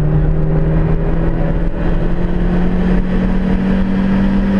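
Turbocharged 1.8 Ford Zetec four-cylinder engine of a Fiesta XR2i pulling in one gear, its revs climbing steadily, heard from inside the cabin over road and wind noise.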